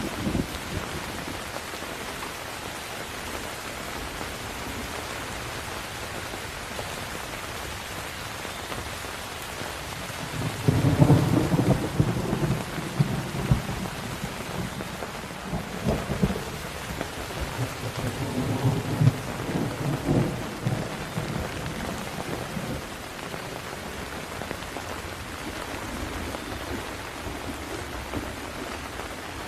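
Steady rain with a long roll of thunder. The rumble starts about a third of the way in, is loudest just after it begins, swells again twice, and dies away after about ten seconds.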